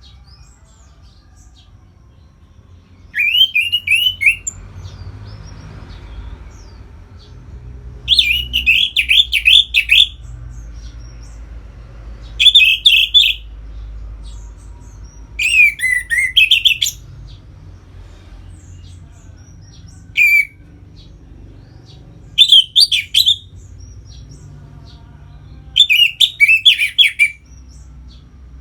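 Orange-headed thrush (anis merah) singing in its clear open 'ngeplong' style: about seven short phrases of rapid, varied high notes, each a second or two long, with pauses of a few seconds between them. A faint low hum runs underneath.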